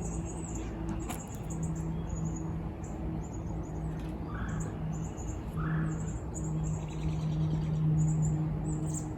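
Small birds chirping: many short, high chirps in quick succession, with two lower, brief calls about halfway through, over a steady low hum.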